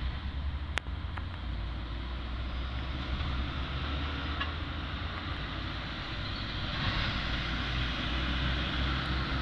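Heavy diesel dump truck engine running with a steady low drone as it pulls up a steep grade. There is a single sharp click about a second in.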